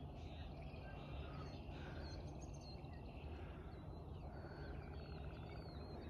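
Faint birdsong: scattered short chirps and whistles, with a quick trill starting near the end, over a steady low rumble of outdoor background noise.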